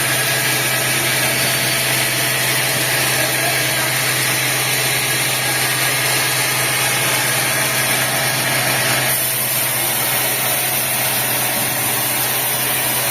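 Sawmill machinery engine running steadily with a low hum, its tone shifting slightly about nine seconds in.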